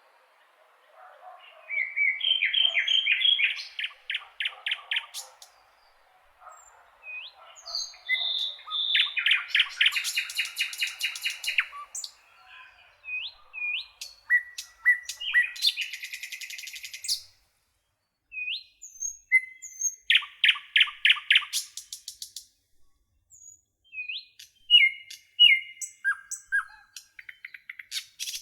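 Small songbirds singing: phrases of rapid repeated notes, with single short chirps between them and brief pauses.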